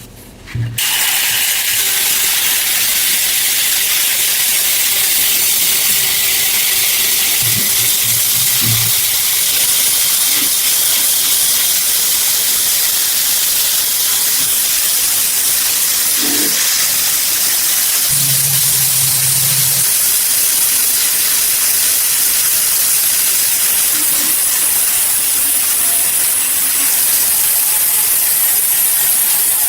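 Steady, loud hiss of a compressed-air jet, starting about a second in and running without a break. A faint low hum comes and goes a few times beneath it.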